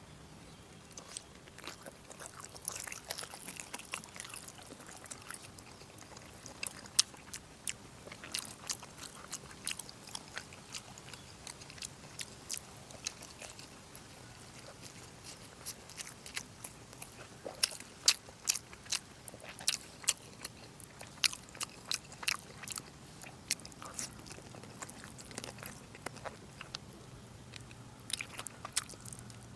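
A person chewing and smacking while eating braised pork, with many short, sharp, irregular mouth clicks.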